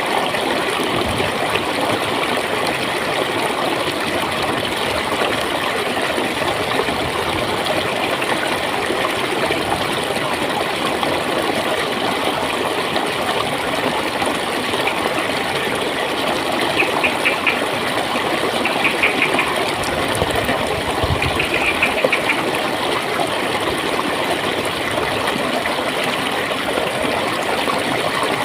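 Clear flowing water gurgling steadily. Three short bursts of rapid ticking come two-thirds of the way through.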